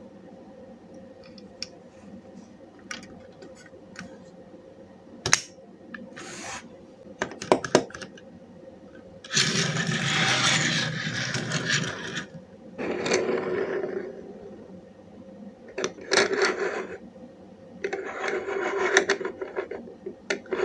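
Small die-cast toy cars being handled and rolled across a hard surface: a few sharp clicks and knocks, then several scraping, rubbing runs of a second or two each.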